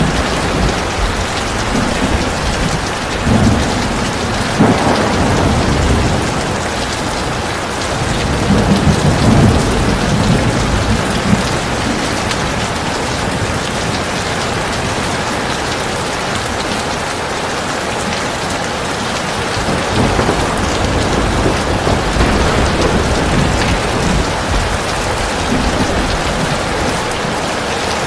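Heavy rain pouring steadily, with low rumbles of thunder swelling underneath several times, strongest about nine to eleven seconds in.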